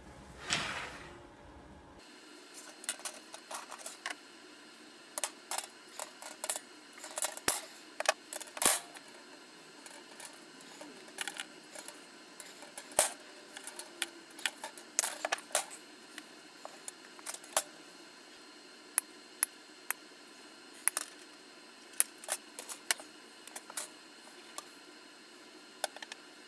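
Irregular light, sharp clicks and taps of small metal parts being handled and fitted together, with no steady rhythm.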